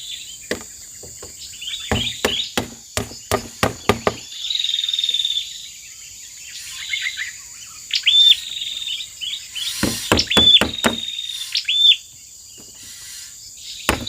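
Birds calling with short, repeated whistled notes over a steady insect drone. Two runs of sharp wooden-sounding knocks come through as well, about three a second for the first four seconds and again briefly about ten seconds in.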